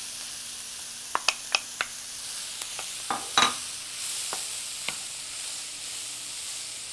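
Onions, bell peppers, mushrooms and black beans sizzling in a hot oiled skillet. There are a few sharp taps about a second in, then a wooden spoon scraping through the mix as it is stirred.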